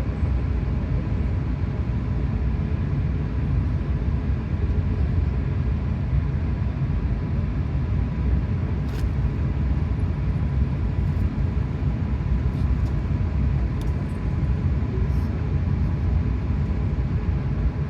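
Steady low rumble of engine and airflow noise heard inside the cabin of an Airbus A380-800 airliner, with a faint steady whine and a few light ticks.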